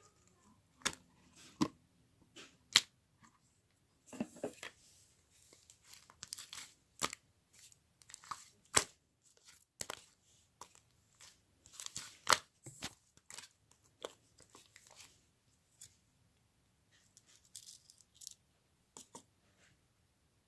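Irregular handling noises: sharp clicks and taps mixed with short tearing and crinkling rustles.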